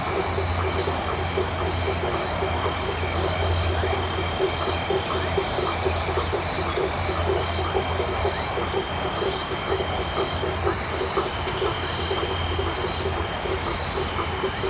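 Tropical night chorus of frogs, a dense run of rapid croaks, over a steady high-pitched trilling of crickets and a low steady drone underneath.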